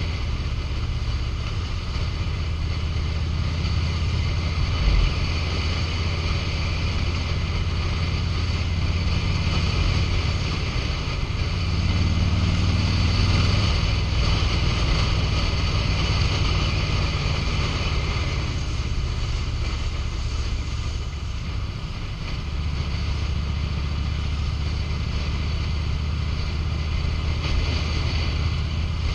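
A 2005 Harley-Davidson Road King's air-cooled V-twin engine running while riding at road speed, with wind noise on the microphone. The engine note rises and grows louder about twelve seconds in, drops back around eighteen seconds in, and picks up again a few seconds later. There is a brief thump about five seconds in.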